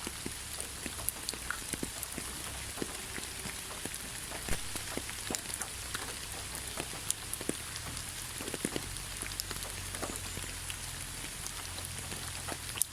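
Steady rain falling in a forest, an even hiss with many scattered sharp drop ticks throughout.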